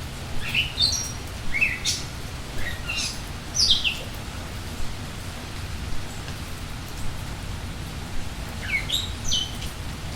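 Steady rain falling while songbirds sing short, quick phrases of chirps: several in the first four seconds, then another burst near the end.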